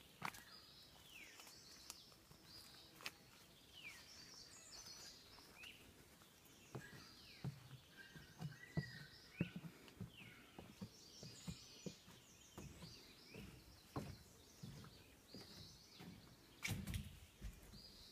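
Faint birdsong: several birds chirping with short falling whistles, with scattered soft knocks and clicks from about seven seconds in.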